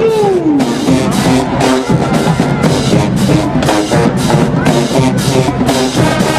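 College marching band playing: brass notes held over steady drumline and bass drum strokes, with one brass note sliding down in pitch near the start.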